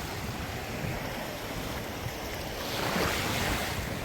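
Sea waves washing onto the beach, with wind rushing on the microphone; the wash grows louder for about a second near three seconds in.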